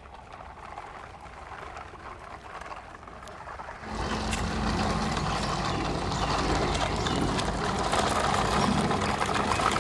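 Vehicle engine running. It is fairly quiet at first, then steps up suddenly about four seconds in to a louder, steady drone with a low hum.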